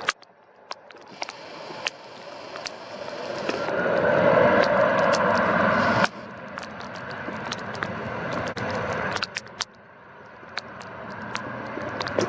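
Wind buffeting the camera's built-in microphone with crackling clicks, over a rushing roar that swells over several seconds, cuts off abruptly about six seconds in, and builds again near the end.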